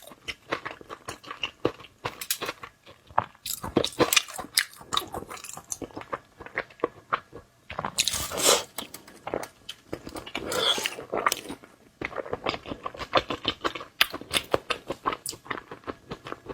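Close-miked chewing and biting of food, an irregular run of crisp crunching clicks and wet mouth sounds, louder in two stretches partway through.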